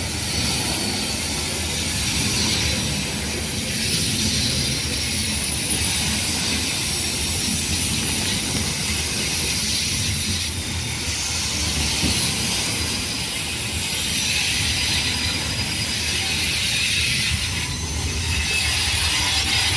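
Train cars rolling past on the rails: a steady low rumble under a high hiss that swells and fades every few seconds.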